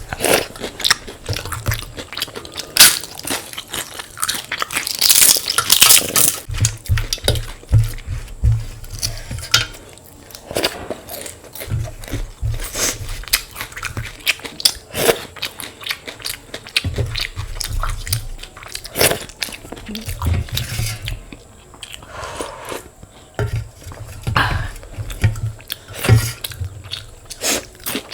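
Close-miked eating: chewing and crunching of panta bhat (soaked water rice) with crisp fried sides, in an irregular run of sharp bites and crunches over steady chewing. A long crunch comes around a fifth of the way in.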